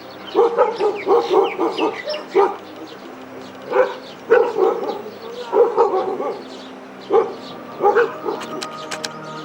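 A dog barking in bouts: a quick run of about five barks, then scattered single barks and short clusters.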